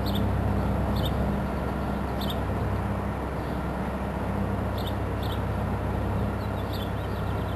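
Push-pull commuter train approaching cab-car first, an EMD F59PH-series diesel pushing at the rear: a steady low rumble with a diesel drone. Short faint high chirps recur about once a second.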